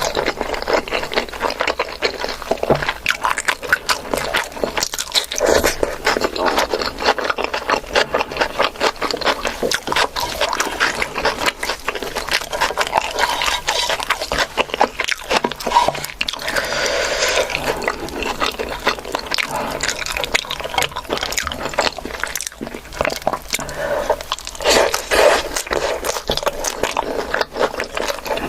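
Close-miked eating: steady wet chewing and smacking with small crunches of food, going on without a break.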